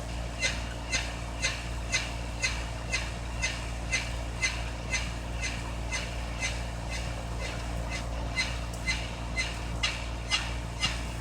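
Unidentified repeating signal heard through a radio's speaker: short chirping pulses about twice a second over steady hum and static. The signal drifts around nearby frequencies.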